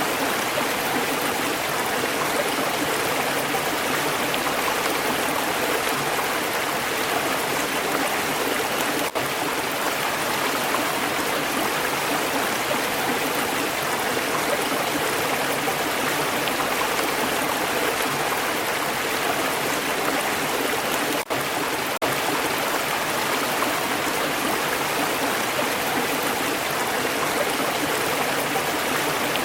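Stream water flowing steadily, an even rushing and burbling of water, broken by two or three split-second dips.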